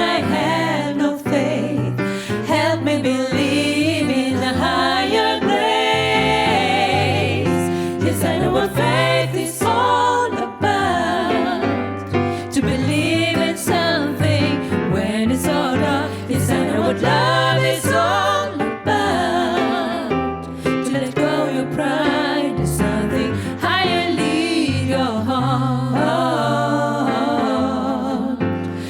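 Women's vocal group singing in close multi-part harmony over a low bass line that changes note about once a second.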